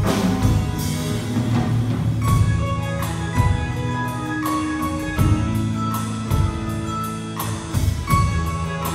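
Live band playing an instrumental passage between sung lines of a country-folk ballad: held chords under short melodic notes, with a steady beat of drum hits about once a second.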